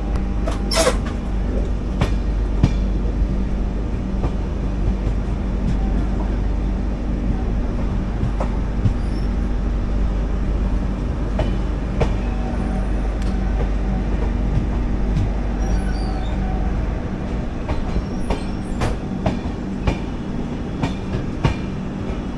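Indian Railways express train running slowly into its terminus: a steady rumble with scattered clicks of wheels over rail joints and a brief wheel screech about a second in. The deepest rumble drops away about 17 seconds in.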